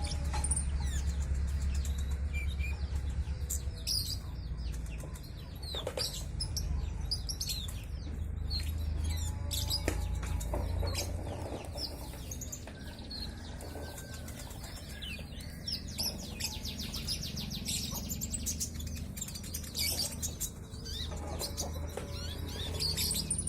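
Small caged songbird of the kind sold as 'kolibri ninja dada coklat' singing high, thin chirps and quick twittering trills, busiest in the second half, over a steady low rumble.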